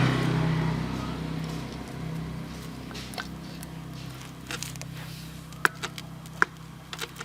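Farm tractor engine running steadily, easing off a little in the first second or two, with a few sharp clicks or knocks in the second half.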